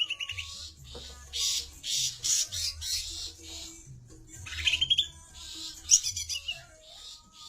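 A songbird singing a fast, varied song: clusters of high chattering notes, with a rising trill about five seconds in.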